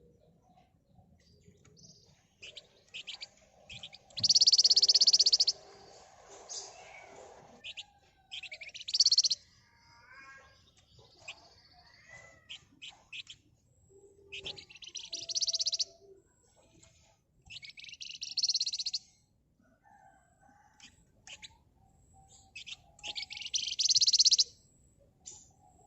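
Flamboyan (wergan Jawa) songbird singing: five bursts of dense, rapid high trilling, the 'ngebren' song, with short chirps and chattering between them.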